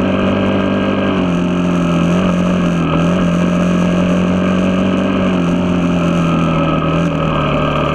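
Vehicle engine running at a steady speed while under way, one even drone whose pitch shifts slightly now and then.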